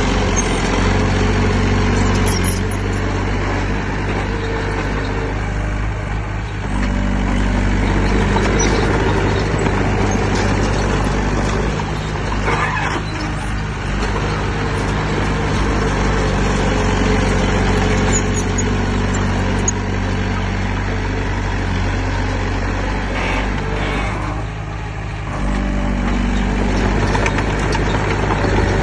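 Diesel engine of heavy earthmoving equipment running continuously, its pitch shifting and easing off briefly a few times as the throttle changes.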